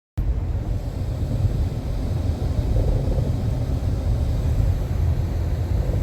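A steady low rumble with a faint hiss above it, starting abruptly just after the start.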